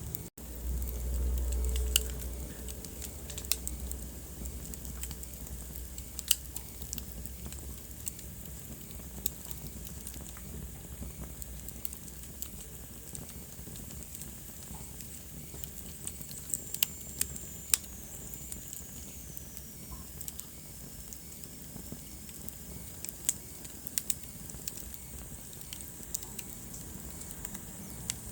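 Wood fire crackling, with irregular sharp pops over a steady low hiss and rumble. A louder low rumble comes about half a second in and lasts a second or so, and a faint whistle falls in pitch during the second half.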